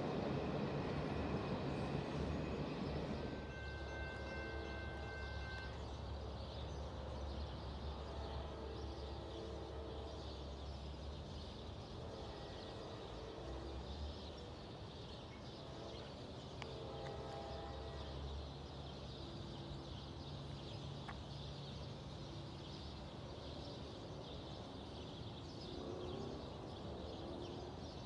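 A train's rumble fading away into the distance after it has passed, leaving a low steady rumble that dies down over the following seconds. A few distant horn notes sound as chords, about four seconds in and again several times later.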